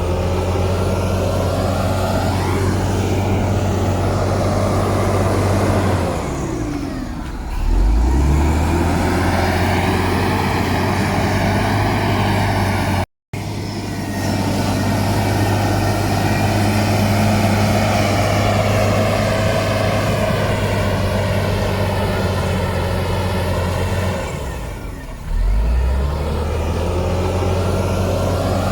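Heavy diesel engine of earthmoving machinery running hard under load. Its speed sags and picks back up twice, about a quarter of the way in and near the end. There is a split-second dropout to silence just before the halfway point.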